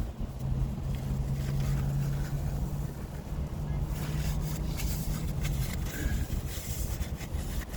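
A person chewing a soft cookie, with small wet mouth clicks in the second half, over a steady low hum that fades out about six seconds in.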